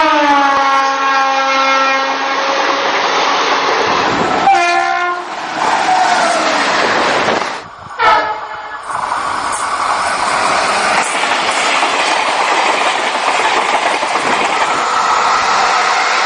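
Train horn blowing: one long blast that slides slightly down in pitch, a short blast about four and a half seconds in and another about eight seconds in. Under the blasts, the steady rushing clatter of a train running on track.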